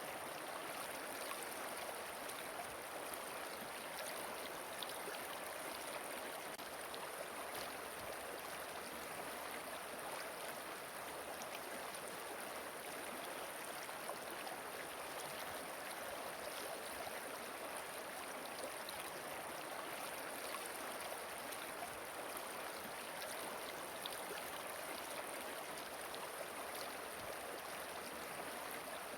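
Running water rushing steadily, with small splashes and drips scattered through it.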